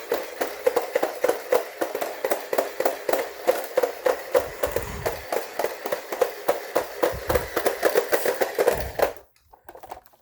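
Battery-powered Road Rippers Rockin' Rider low-rider toy truck running its motorized action, plastic clacking in a fast, even rhythm of about four clacks a second. It stops abruptly about nine seconds in.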